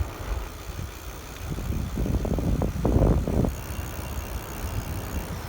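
Wind buffeting a phone microphone while cycling: a low rumble, with rougher gusts from about two seconds in.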